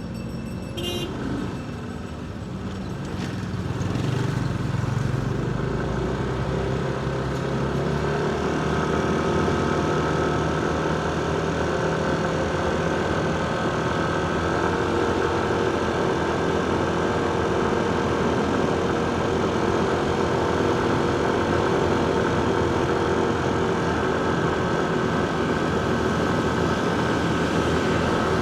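Motorcycle engine and road noise heard from the rider's seat in city traffic. The engine picks up about four seconds in, then runs at a steady pace.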